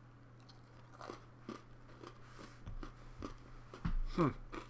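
A person biting into and chewing a Chocolate Hazelnut Oreo sandwich cookie: a run of soft, irregular crunches, with a short downward-sliding hum near the end.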